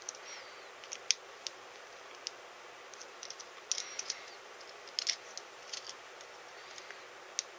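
Small plastic parts being handled and fitted together: irregular light clicks and taps, with brief scraping near the middle. The loudest click comes about a second in.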